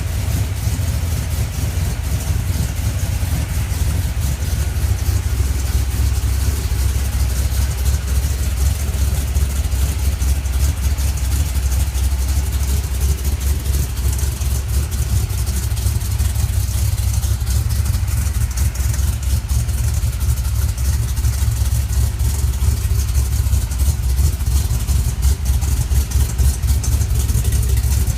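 A 1970 Chevy C10's small-block 350 V8 with a Comp Cams Mutha Thumpr cam, idling steadily through Hedman headers and 2½-inch Magnaflow mufflers. It gives a deep, pulsing exhaust rumble with no revving.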